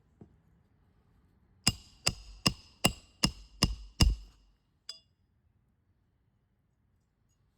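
Roofing hammer striking a steel roof snake seven times in quick, even succession, about two and a half blows a second, each with a bright metallic ring, to drive a roofing nail under a 3-tab shingle on the sealant line; a single light tap follows.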